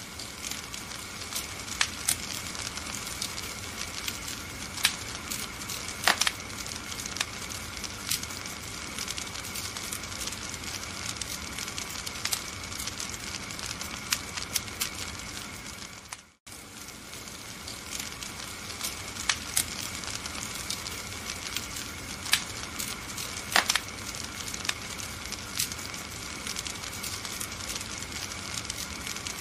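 Wood fire burning in a fireplace: a steady crackling hiss with frequent sharp pops and snaps. The sound cuts out for an instant about sixteen seconds in.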